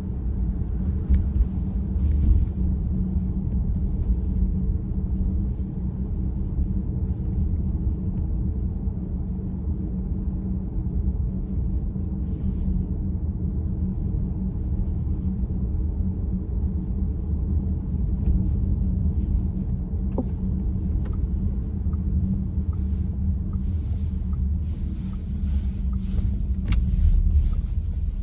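Steady low road and engine rumble heard from inside a moving car. Near the end a run of sharp clicks comes in: this is the steering column noise the owner is recording.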